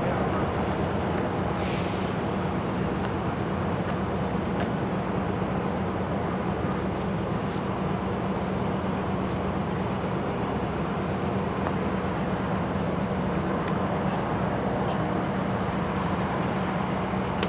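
Diesel locomotive engine running steadily with a low, even hum and no change in speed.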